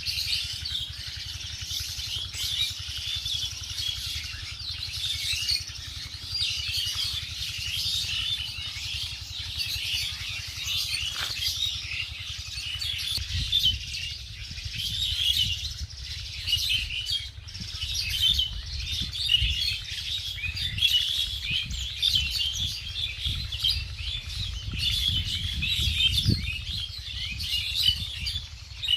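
Many small birds chirping and twittering continuously, a dense overlapping chorus of short high chirps, over a low rumble.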